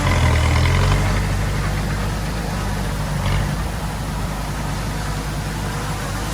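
Diesel engine of heavy earthmoving equipment running steadily, a little louder for the first second or so, then holding an even low drone.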